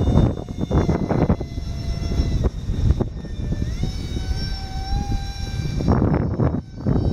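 High whine of a small 40 mm electric ducted fan on an HK Bonsai RC jet, its pitch rising about halfway through, under heavy wind buffeting the microphone; the wind rumble eases in the middle and returns near the end.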